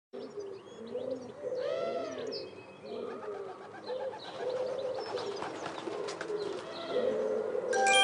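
Birdsong: a low cooing call repeated many times, with higher chirps from other small birds. A sustained bell-like chime comes in near the end.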